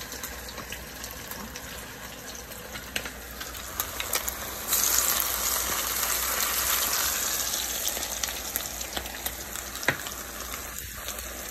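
Salmon patties frying in hot oil in a skillet on medium-high heat: a steady sizzle that swells suddenly about five seconds in and slowly settles again, with a few light clicks.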